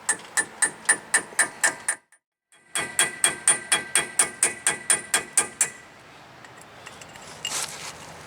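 Hammer striking steel in rapid, even taps, about four a second, each with a short metallic ring, while working to free a seized brake caliper bleed screw. The taps stop briefly about two seconds in, then resume for about three more seconds.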